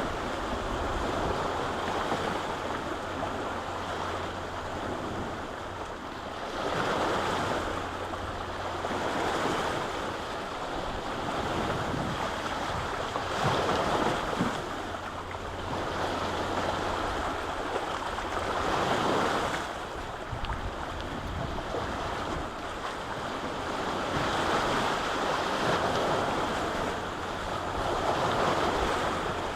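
Lake waves washing ashore, swelling and easing every few seconds, with a low wind rumble on the microphone beneath.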